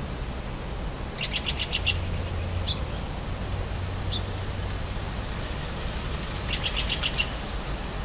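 A songbird calling twice, each time with a quick run of about eight high notes lasting under a second, with a few single chips in between. Beneath it runs a steady low rumble of distant traffic.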